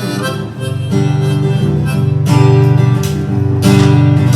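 Instrumental break of a live country-style song: acoustic guitar strumming under a harmonica playing long held notes, with no singing.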